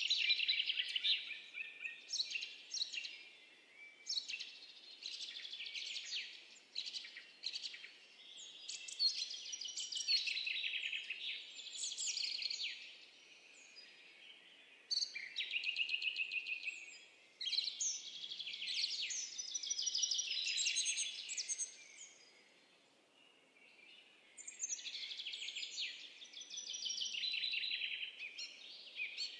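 Songbirds singing: rapid, high chirping and trilling phrases a few seconds long, separated by short pauses.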